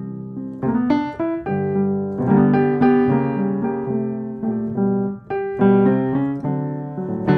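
Piano music: chords and melody notes struck one after another, each ringing and fading.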